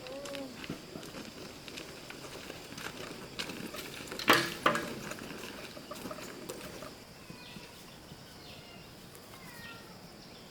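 A steady high insect buzz under scattered clicks and knocks, with one sharp, loud knock about four seconds in. Short falling chirps come in the second half.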